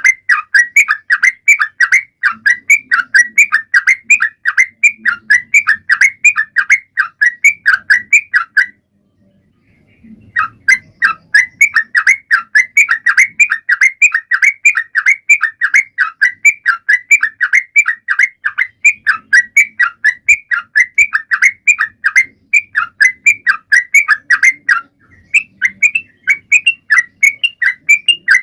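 Yellow-vented bulbul (trucukan) singing in full, steady voice: a fast, continuous run of short chirping notes with one brief pause about nine seconds in.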